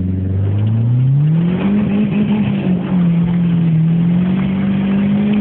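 Turbocharged Volvo 480 1.7-litre four-cylinder engine in a Renault 5 GT Turbo, running 1 bar of boost, accelerating hard, heard from inside the cabin. The revs climb steeply about a second in and hold high, sag a little around the middle, then creep back up.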